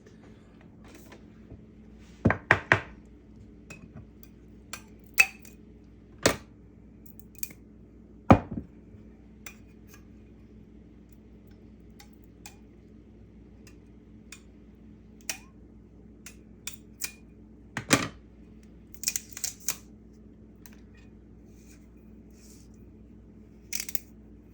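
Scattered clinks and knocks of kitchen dishes, utensils and containers being handled, a dozen or so sharp separate hits in irregular clusters, over a faint steady low hum.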